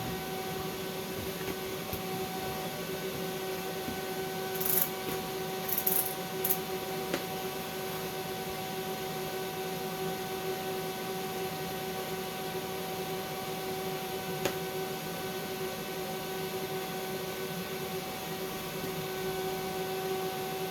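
Steady electrical hum holding several fixed tones, with no arc crackle. A few brief high hisses come about five to six seconds in, and a single faint click comes midway.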